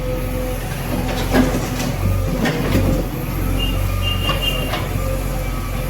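JCB 3DX backhoe loader's diesel engine running steadily, with a few sharp knocks about one and a half, two and a half and three seconds in, and a brief high squeal about four seconds in.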